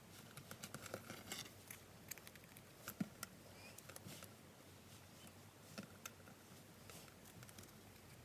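Faint handling of paper and card on a work surface: light rustles and small clicks, with one sharper tap about three seconds in.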